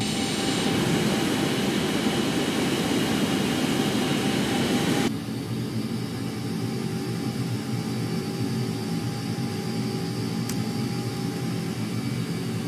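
Blue Angels jet engines running loudly, cutting off abruptly about five seconds in and giving way to a quieter, steady background rumble.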